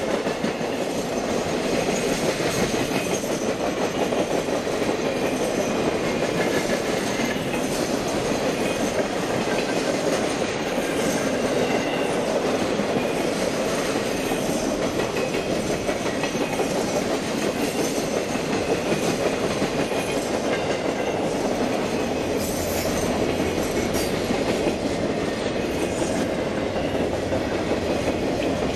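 Triple Crown RoadRailer trailers riding on rail bogies rolling past steadily: a continuous, even rumble and clatter of steel wheels on the rails.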